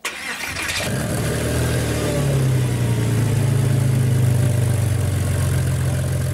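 A car engine starting: a sudden burst of noise, then the engine catches and runs at a steady fast idle, its note firming up about two seconds in.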